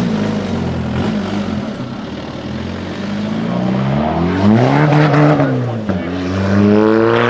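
A car engine running low, then revved, climbing in pitch and falling back, with a second rise near the end.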